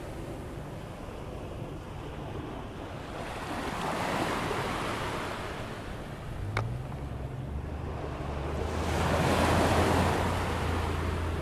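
Ocean surf with the tide coming in: waves breaking on the beach, the wash swelling about four seconds in and again near the end, with wind on the microphone. A brief click comes a little past halfway, and a low steady hum starts at about the same moment and keeps on.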